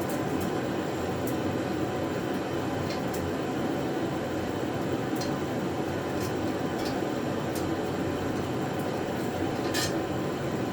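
Steady rumbling background noise, with a few light, sharp metal clicks and clinks from welding cart parts being handled during assembly; the clearest click comes near the end.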